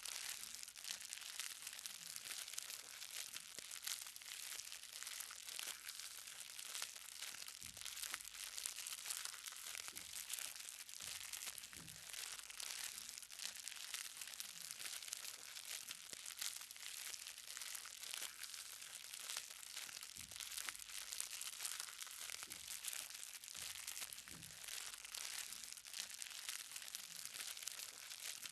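Light rain, with many small drops ticking on the ground over a steady hiss.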